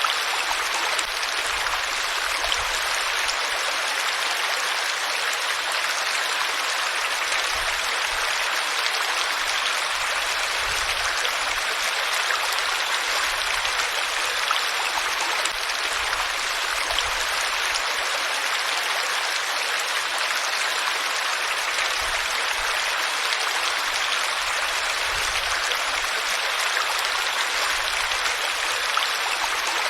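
Flowing water of a stream, a steady rushing noise with no pauses.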